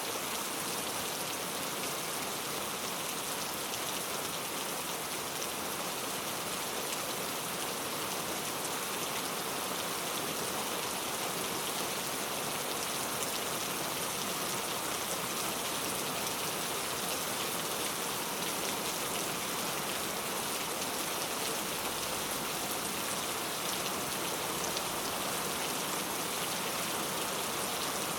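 Steady rain falling on a surface, a dense even hiss of many small drops that does not change.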